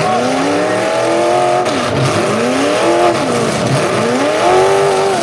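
Full-size demolition derby car engines revving up and falling back again and again, several overlapping, over a steady din.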